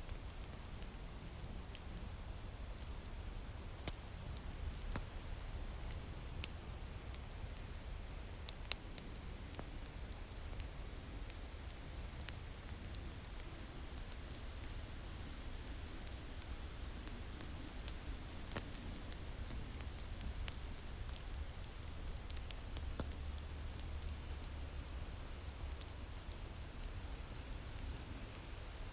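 Wood fire crackling, with irregular sharp pops, over a steady low rumble of winter wind.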